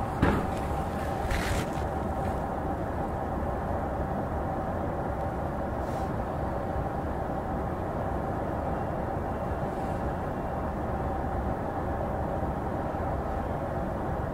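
JR East E233-0 series electric train standing at a station, heard from inside: a steady hum from its on-board equipment with a constant mid-pitched tone. A short knock comes just after the start and a brief hiss about a second later.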